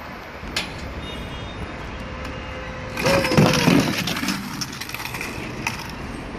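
Toy monster trucks running with a steady whirring hum, and a short voice-like cry about three seconds in.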